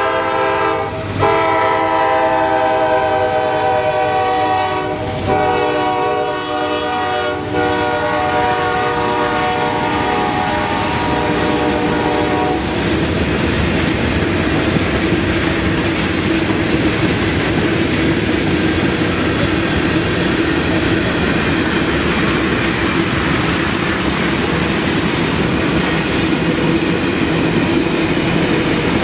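A freight locomotive's multi-chime air horn sounding four blasts, the last held longest, in the long-long-short-long pattern of a grade-crossing signal. The horn stops about halfway through. After that the train's tank cars and boxcars roll past with a steady clatter of wheels over the rail joints and one held tone above the rumble.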